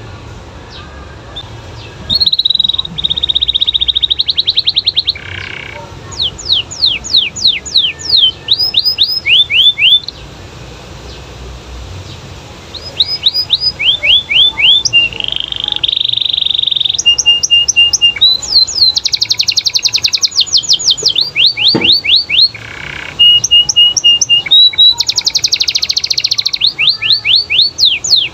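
Domestic canary singing in full voice: phrases of fast repeated downward-sweeping notes alternating with rapid buzzy trills, beginning about two seconds in, with a short break near the middle.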